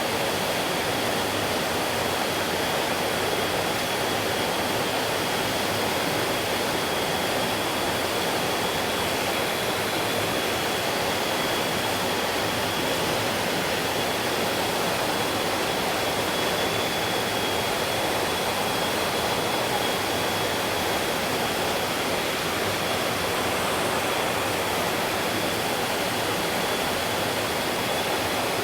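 Stream water rushing steadily, an even unbroken rush, with a thin steady high-pitched tone running alongside.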